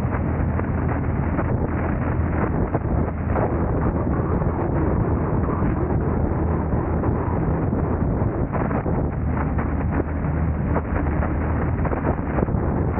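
Steady road and engine rumble of a car driving, picked up by the camera, with frequent small knocks and rattles over it.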